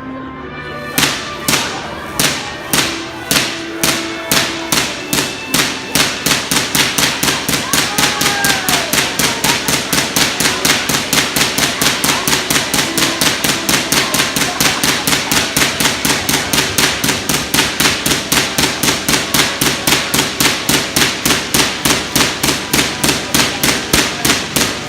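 Tesla coil sparks cracking loudly in a regular rhythm. The cracks start about a second in at roughly two a second and speed up to about four a second, as the coil is driven in a musical beat.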